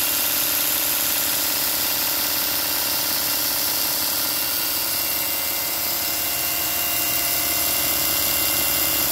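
Shop-built 2x42 belt grinder with a 2-horsepower DC servo motor running steadily: a high whir and hiss from the 2-inch belt over its wheels, with a constant motor hum underneath, while the belt tracks true.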